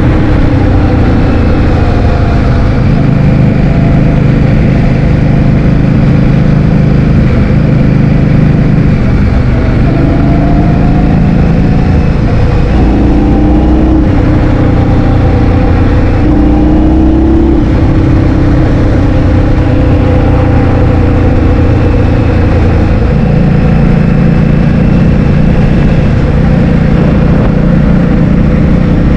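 Loud, steady wind buffeting the microphone while riding, over a running engine whose pitch steps up and down several times.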